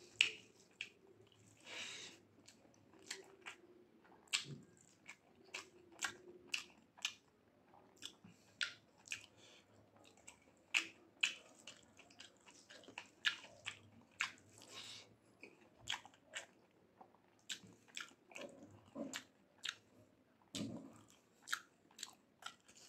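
Close-miked chewing with wet mouth clicks and smacks, about two a second, of a person eating mutton curry with rice and potato.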